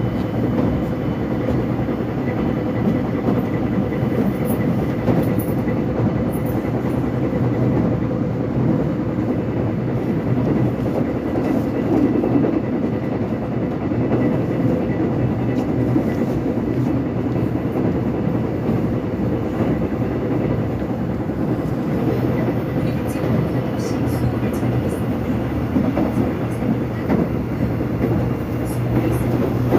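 Inside a Korean subway commuter train car while it runs along the track: a steady rumble of wheels on rail with a constant hum, and a few faint rattles and clicks.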